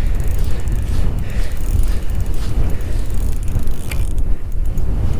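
Fishing reel ratcheting and clicking as a hooked trout is fought on a light ice-fishing rod, under a heavy, steady rumble of wind on the microphone.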